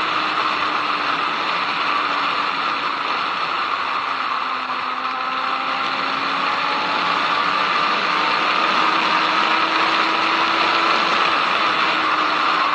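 Inline-four sport motorcycle engine running at speed under heavy wind rush, its pitch easing down slightly a few seconds in and climbing back.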